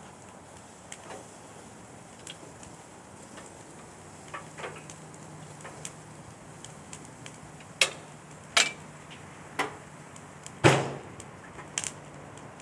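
Wood bonfire crackling, with scattered sharp pops that come closer together near the end, the loudest a little before the end.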